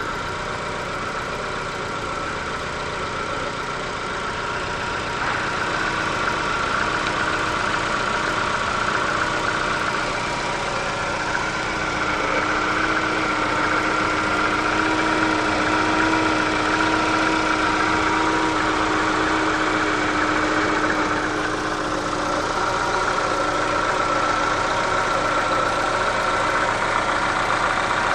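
Chevrolet Cruze 1.6-litre (109 hp) inline-four petrol engine idling steadily after about five minutes of warm-up, a little louder from about five seconds in.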